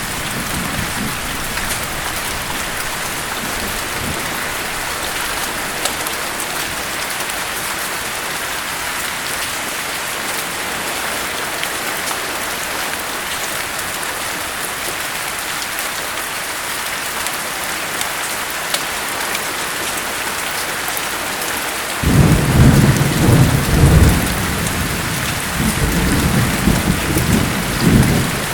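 Steady rain falling, an even hiss. Near the end a low rumble of thunder breaks in suddenly and rolls on in two swells.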